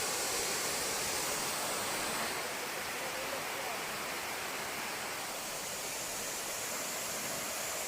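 Waterfall, a steady rushing of falling water that stays even throughout.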